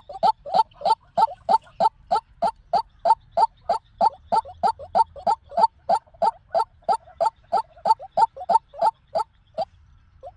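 White-breasted waterhen calling: a long run of short, identical notes repeated about three times a second. The series breaks off near the end.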